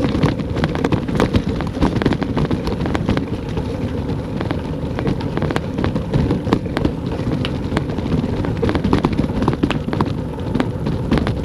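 Raindrops ticking and crackling irregularly against the camera, over a steady rumble of wind buffeting the microphone.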